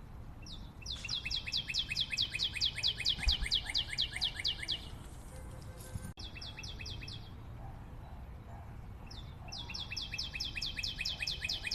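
A bird trilling in rapid runs of short, high, down-slurred chirps, about six a second. A run of about four seconds, a short burst a little after the middle, and another run starting near the end.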